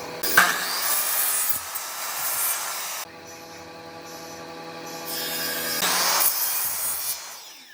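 Electric power tool working wood. Its motor hums, then bites into the wood for about two and a half seconds, runs free for a couple of seconds, cuts again from about five seconds in, and winds down near the end.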